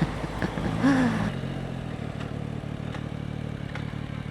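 Motorcycle engine running at low speed, settling to a steady, quieter idle after about a second.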